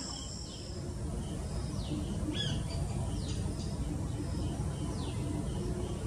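Birds calling: short, high, falling chirps about once a second, over a steady low background rumble.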